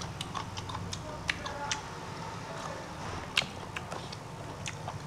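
Close-miked eating sounds: wet chewing and lip smacks heard as a scatter of short clicks, a few of them sharper, while fingers pick at rice on the plate. A faint steady low hum lies underneath.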